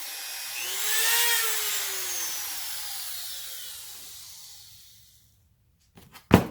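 A hand-held power tool's motor whining as it coasts down after being switched off, its pitch falling steadily and dying away over about four seconds. Then a couple of sharp knocks near the end.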